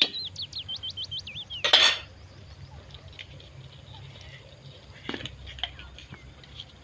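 Cutlery clinking against dishes, with one louder clatter about two seconds in, while a bird sings a quick run of repeated whistled notes at the start and chirps faintly afterwards.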